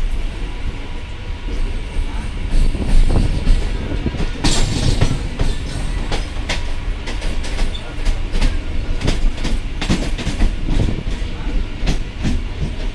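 MEMU electric multiple-unit train running, heard from its open doorway: a steady low rumble with the wheels clacking over rail joints and crossovers. The clacks come thick and fast from about four and a half seconds in.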